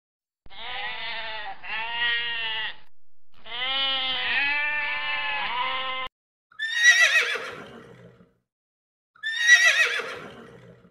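Animal calls: two short pitched cries and a longer wavering one, then two high, quavering calls that fall steeply in pitch, typical of a horse whinnying.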